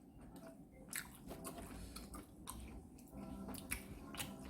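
A person chewing a mouthful of tteokbokki, soft wet mouth sounds with a few sharp clicks.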